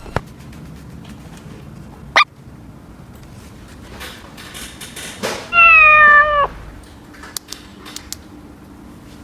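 A single loud meow, held about a second at a steady, slightly falling pitch and cut off sharply. About two seconds in there is a quick rising chirp.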